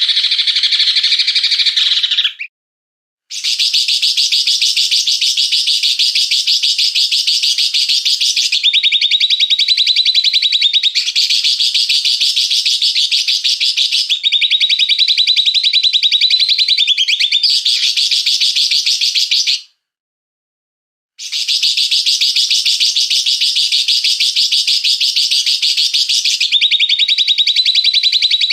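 Small songbird giving harsh, rapid-fire trills, the rough 'tembakan' bursts used as masteran training song for cage birds. They come in long unbroken phrases that alternate between two slightly different pitches, with two short breaks, about three seconds in and near twenty seconds.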